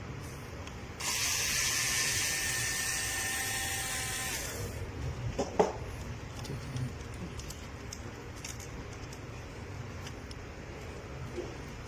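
Robot vacuum running with a low steady hum; from about a second in a loud rush of air with a thin whine lasts about three and a half seconds, then a single sharp knock and a few light clicks.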